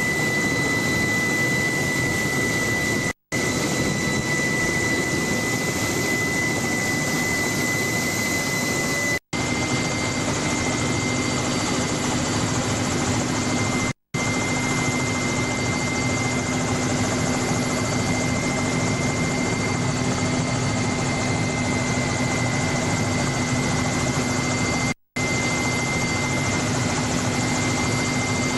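Helicopter heard from on board: steady rotor and engine noise with a high, even whine. The sound drops out for a split second four times.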